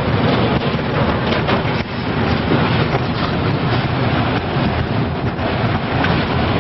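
Loud, steady roar of violent storm wind, heaviest in the low end.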